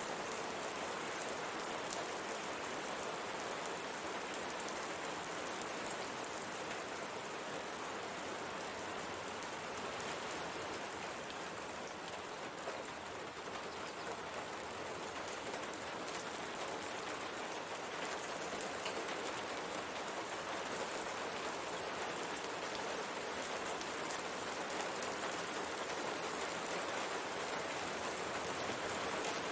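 Steady rain pattering on a window pane, an even hiss of drops with fine scattered taps.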